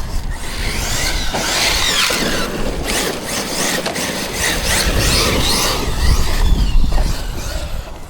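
Electric RC monster truck's brushless motor whining up and down in pitch as the throttle is worked, over the rough noise of tyres on dirt and gravel and low rumble from wind on the microphone.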